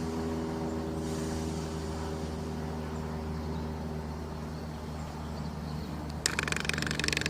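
A pair of Class 319 electric multiple units pulling away, a steady hum of several tones that slowly fades. About six seconds in, a rapid rattling clatter starts.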